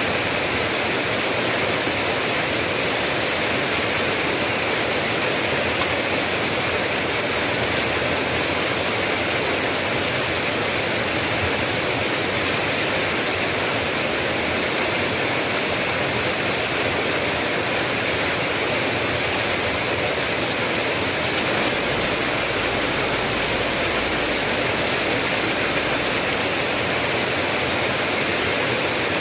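Steady heavy rain: a dense, even hiss of countless drops with no let-up. A low rumble joins about two-thirds of the way through and fades out shortly before the end.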